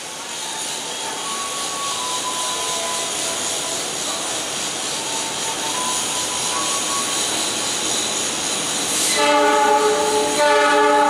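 Diesel-electric locomotive hauling a passenger train approaching, its engine and rail noise growing louder, then sounding its multi-tone horn twice near the end, two blasts of about a second each.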